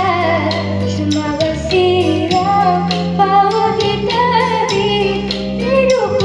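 A solo singer singing a melody with held, wavering notes over a backing track with steady bass notes and a beat.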